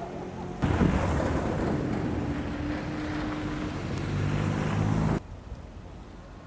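Storm wind rushing over the microphone, with a low steady hum beneath it. The sound starts suddenly about half a second in and cuts off suddenly about a second before the end.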